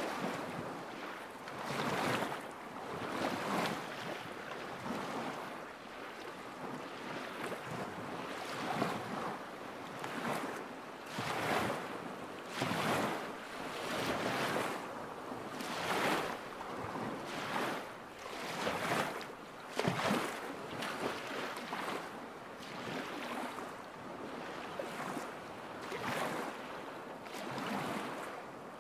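Small lake waves lapping against the shore, an irregular run of soft splashes every second or two.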